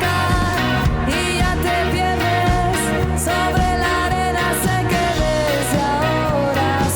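A new wave band with a dream pop and synth pop sound playing a song: a lead voice sings a melody of long held notes over bass, drums and guitar.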